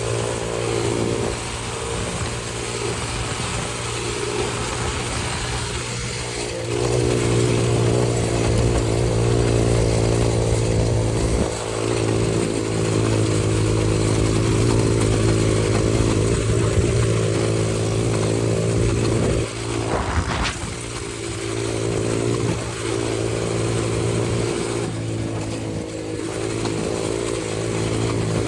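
125cc dirt bike's single-cylinder engine running under way at a steady pitch, picking up about a quarter of the way in and easing off briefly a few times as the throttle closes. A sharp clack about two-thirds of the way through.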